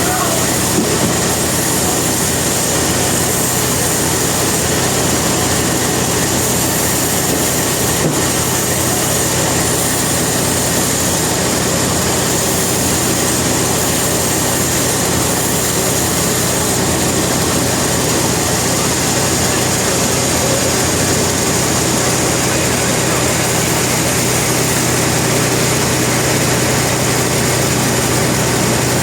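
Sawmill machinery running steadily, a constant loud mechanical drone with a steady hum and no change in pace.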